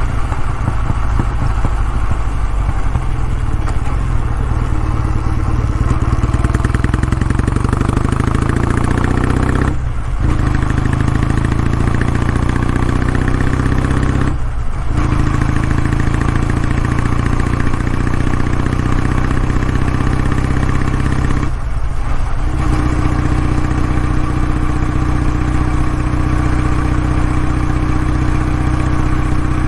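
Kawasaki W650's air-cooled 676 cc parallel-twin engine running steadily through its exhaust. The sound drops out briefly three times, about 10, 15 and 22 seconds in.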